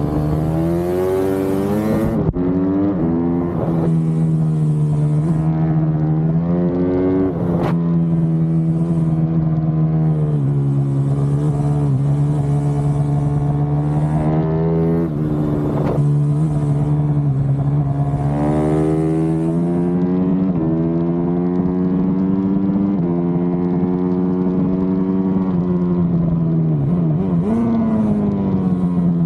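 Supermoto motorcycle engine running hard around a track. Its pitch climbs and falls every few seconds as it accelerates and slows, with several quick dips.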